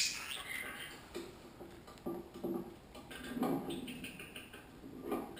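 Small pet parrots making soft, short chattering sounds and faint clicks, coming in a few scattered bursts, while they snack.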